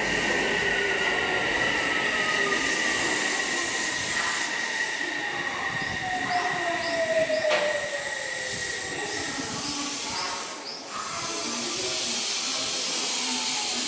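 Odakyu 8000-series electric train slowing, its electric drive whine gliding steadily down in pitch over about nine seconds. A steady high squeal sits over it, with running noise throughout.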